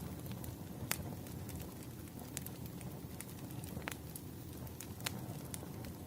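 Fireplace fire crackling: a steady low rumble with scattered sharp pops, a few louder ones about a second in, near four seconds and near five seconds.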